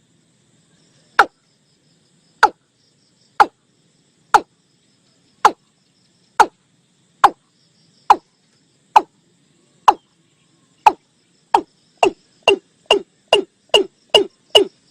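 Watercock (Gallicrex cinerea) calling: a series of short, hollow notes, each dropping in pitch. They come about one a second, then quicken to about three a second in the last few seconds.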